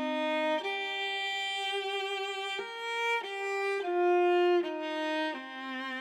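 Intro music: a slow solo melody on a bowed string instrument, like a violin, played in long held notes with vibrato. It grows quieter near the end.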